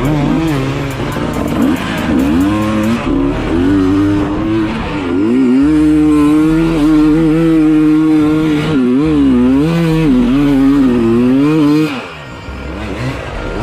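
Dirt bike engine sound revving up and down, holding steady in places, then dropping off sharply about twelve seconds in.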